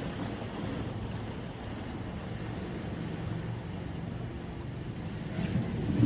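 Steady low rumble of wind buffeting the microphone, mixed with surf washing on the beach.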